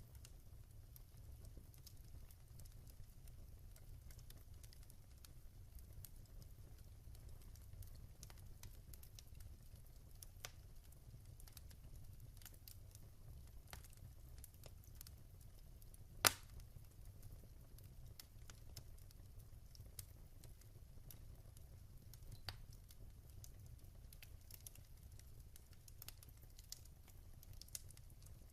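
Faint wood fire crackling in a fireplace: scattered small snaps over a low steady rumble, with one sharp, louder pop a little past halfway.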